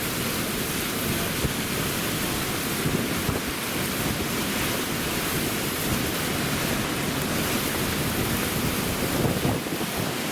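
Hurricane-force wind from Hurricane Ian's eyewall blowing hard and steadily, buffeting the microphone.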